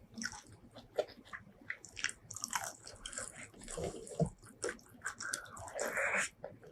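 Close-miked eating: irregular chewing with wet mouth clicks, and a longer noisy wet burst about six seconds in.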